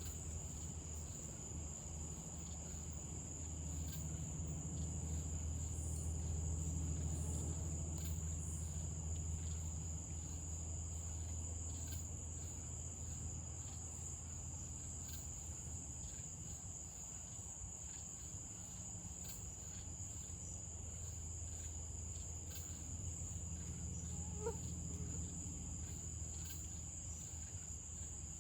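Crickets trilling in one steady, continuous high-pitched tone, with a low rumble that swells and fades twice underneath.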